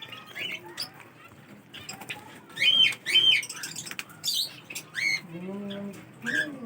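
Parrots squawking and chirping: short arched screeching calls, the loudest a pair a little before halfway, with smaller calls scattered around them.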